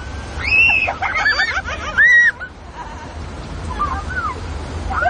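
People shrieking and squealing on a river rapids raft ride: several short high-pitched shrieks, the loudest about half a second and two seconds in, over a steady low rumble of rushing water.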